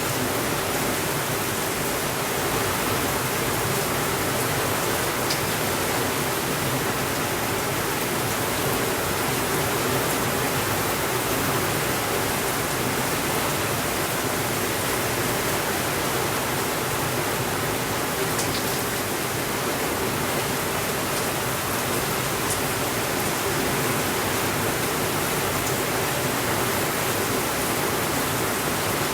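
Steady rainfall making an even, unbroken hiss, with a few faint, scattered ticks.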